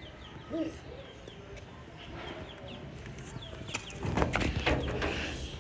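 Chickens calling: many short, high, falling peeps repeated throughout, with a lower cluck-like call about half a second in. A few louder knocks and rustles come in from about four seconds in.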